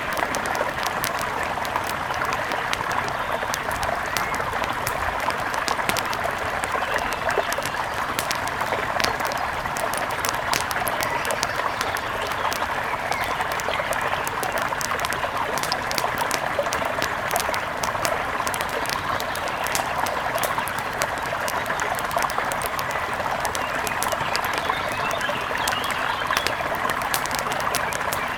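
Mountain river flowing: a steady, even rush of water, sprinkled throughout with many small, sharp ticks.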